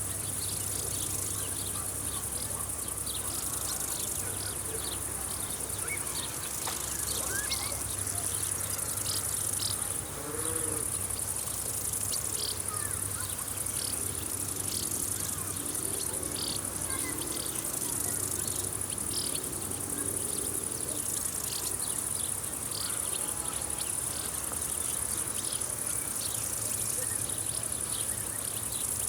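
Field insects such as crickets chirping: a steady high-pitched chorus with many short chirps scattered over it.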